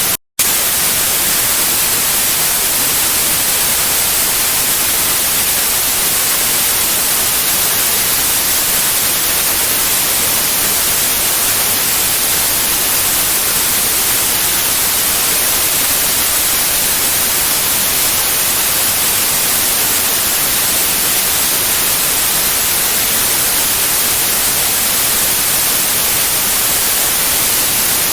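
Steady white noise, an even hiss strongest in the high frequencies, played as a sleep aid. It cuts out for a split second just after the start, then resumes unchanged.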